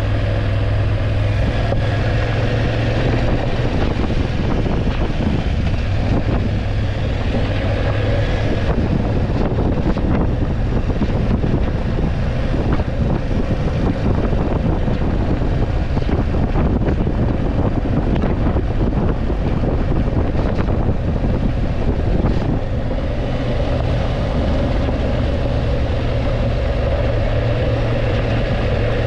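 BMW F850GS parallel-twin motorcycle engine running under way, heard from the bike with wind and road noise. A steady engine note is clear at first, is buried in rougher noise from about three seconds in, and comes back clearly near the end.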